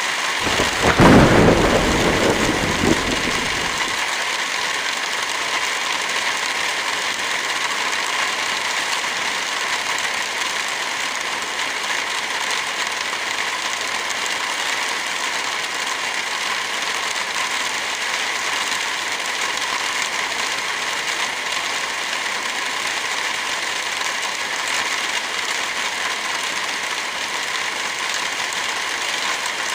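Heavy rain falling as a steady, dense hiss. About a second in, a louder low rumble swells and dies away over roughly three seconds.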